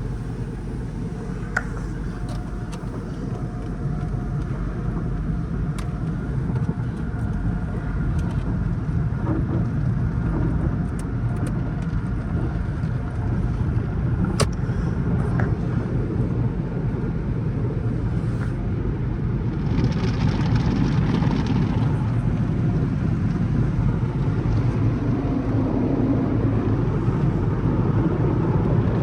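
Automatic car wash heard from inside a Dodge Charger R/T's cabin: a steady low rumble of the idling car and the wash machinery, with scattered clicks and a louder hiss of spray for a few seconds about twenty seconds in.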